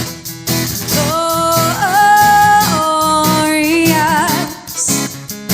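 Worship band music: a singer holds long notes with vibrato over guitar and a steady beat.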